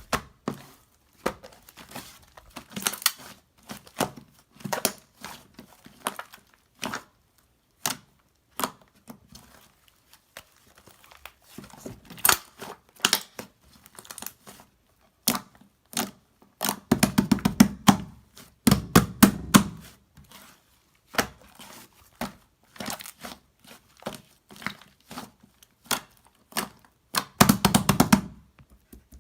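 Paper or plastic being handled by hand: irregular crinkling, rustling and tearing with scattered sharp clicks and taps, coming in short bursts with denser clusters now and then.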